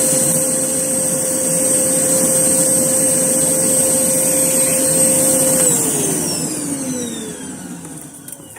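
Hoover Blaze canister vacuum cleaner running with a steady whine, then switched off about five and a half seconds in, its motor winding down with a falling whine that fades out.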